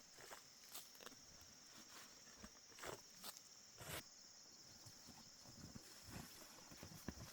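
Faint steady high-pitched insect chirring, with scattered soft clicks and knocks.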